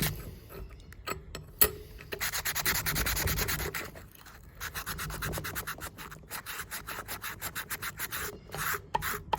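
Quick back-and-forth scrubbing strokes on the steel blade of Felco No. 2 pruning shears, several strokes a second, with a short pause about four seconds in and one sharp click early on.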